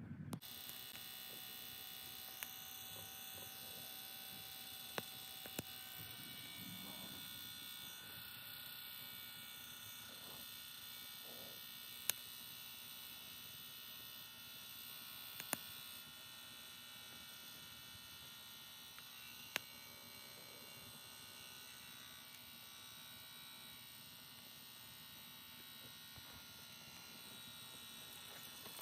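Sierra stove's small battery-powered fan blower running with a steady buzzing hum, forcing air into a wood fire, with occasional sharp crackles from the burning wood.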